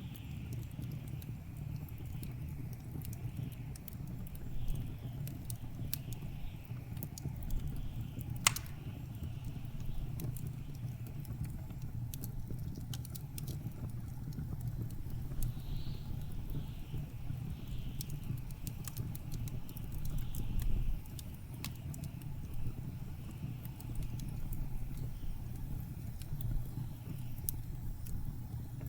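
Wood fire crackling with scattered sharp pops, one louder pop about eight seconds in, over the steady low rumble of blizzard wind, with a faint wavering whistle of wind in gusts.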